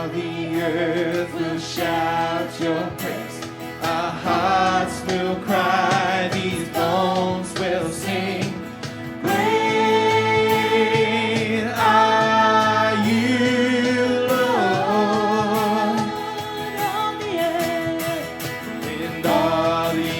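Worship band playing a contemporary worship song, with a singer holding long, wavering notes over sustained instrumental accompaniment, without clear words.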